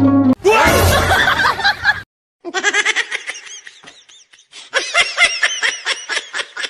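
Laughter in quick repeated bursts, in two runs with a short pause between them, after a brief noisy cry-like sound near the start.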